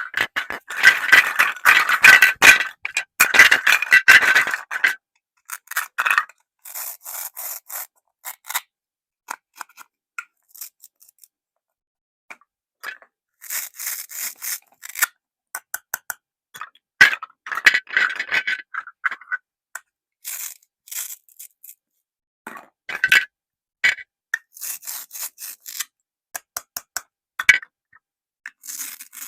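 Plastic toys handled and rubbed together: irregular bursts of scraping and rubbing, loudest in the first few seconds, with silent gaps between them.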